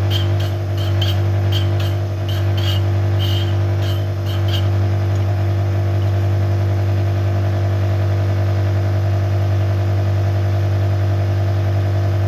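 Rod cap grinder running with a steady motor hum while a connecting rod cap is cut. Quick, regular ticks of the wheel touching the cap, about two to three a second, go on until about four and a half seconds in, then stop, leaving only the hum.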